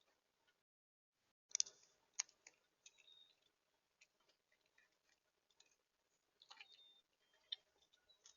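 Birds and squirrels feeding at a bird feeder: faint, scattered clicks and taps of seed being pecked and cracked, the sharpest about a second and a half in, with a few short high chirps.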